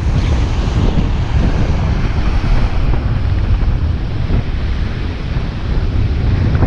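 Loud wind buffeting the microphone as a steady low rumble, over surf breaking on the shore.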